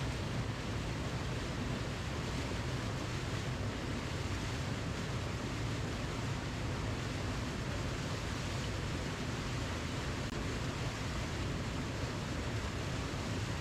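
Waterfall: a steady, even rush of falling water with a deep low rumble, unchanging throughout.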